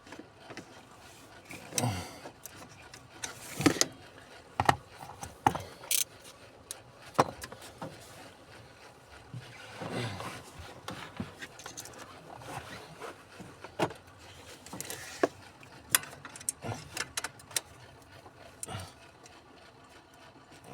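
Irregular clicks, taps and short scrapes of hand tools on metal and plastic as a locked screw on a truck's gas pedal module is worked at without giving way.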